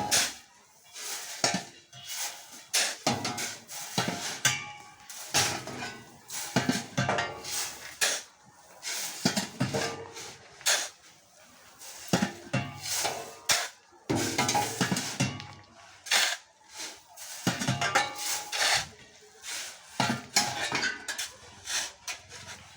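Stones being loaded onto a tractor trailer, clattering and clanking in irregular knocks, several a second.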